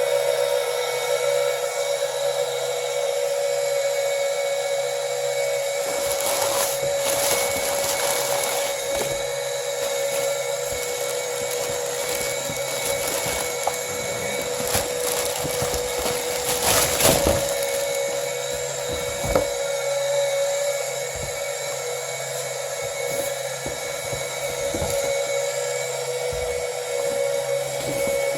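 Small 12-volt DC oil extraction pump motor running with a steady high-pitched whine. From about six to twenty seconds in, a rough, rattling noise with several knocks joins it, then fades.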